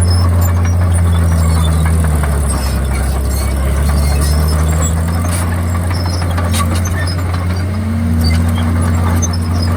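Komatsu D51PX crawler bulldozer's diesel engine running steadily. Its note dips twice and comes back up, with a few short clicks over it.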